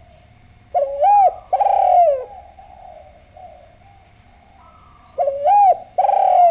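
Spotted dove (derkuku) cooing: two phrases a few seconds apart, each a short rising-and-falling coo followed by a longer coo that drops at the end.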